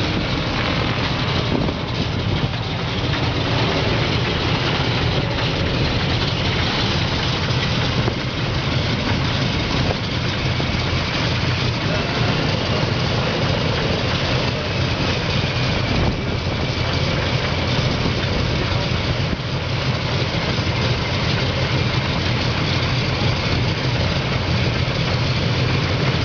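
B-24 Liberator's Pratt & Whitney R-1830 Twin Wasp radial engines running steadily, a loud, even rumble with propeller noise.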